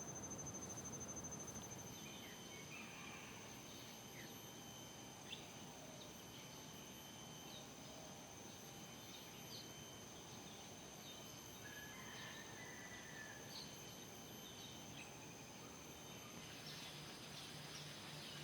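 Faint outdoor ambience of running water as a steady hiss, with scattered short bird chirps and a thin steady high-pitched tone. A single brief click sounds about five seconds in.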